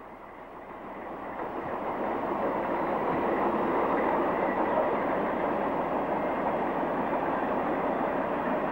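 Train running on track: a steady rolling rumble that swells over the first three seconds, then holds.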